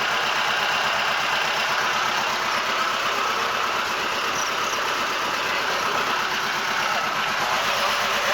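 Boat's engine running steadily underway, an even drone with no change in speed.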